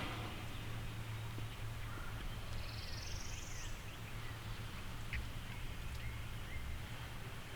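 Wild birds calling: scattered short chirps and a high, buzzy rising trill about three seconds in, over a steady low hum.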